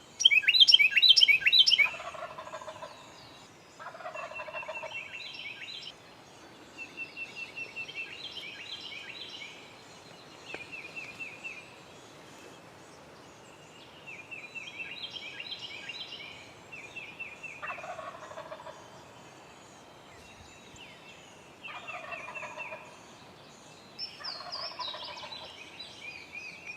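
Eastern wild turkey gobbler gobbling again and again, a hard gobble every few seconds, the loudest right at the start. Smaller birds chirp between the gobbles.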